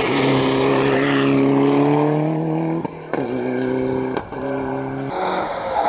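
Rally car accelerating hard, its engine pitch climbing steadily, with two quick upshifts about three and four seconds in. Near the end the engine tone cuts off abruptly into a noisier rush.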